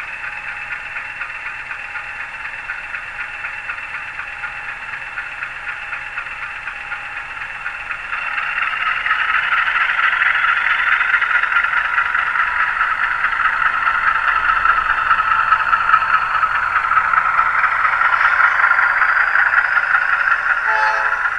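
ESU LokSound Select sound decoder in an HO scale GE C30-S7R model locomotive playing diesel engine sound through the model's small speaker. Steady at first; about eight seconds in the engine note rises and gets louder, as when the locomotive is throttled up, and it holds at the higher level.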